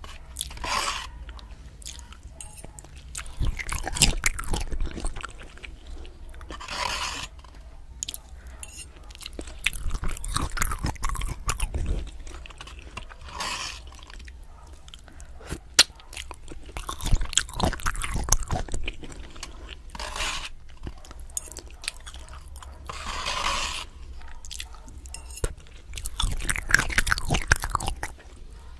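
Close-miked chewing of Maruchan instant noodles, with wet mouth clicks throughout and a short hissing sound every few seconds.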